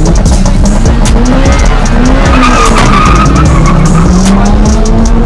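Drag-racing car's engine running hard, its pitch rising, with tyres squealing in the middle of the run.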